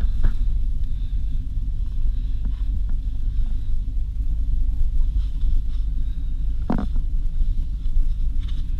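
Soviet-era van driving, its engine and running gear rumbling steadily as heard from inside the cab, with a single knock about seven seconds in.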